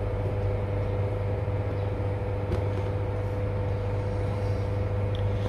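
Steady low mechanical hum with a constant tone, running unchanged throughout.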